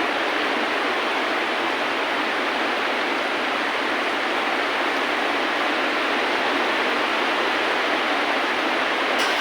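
Steady rainfall, a dense, even hiss with no bass, and a brief click near the end.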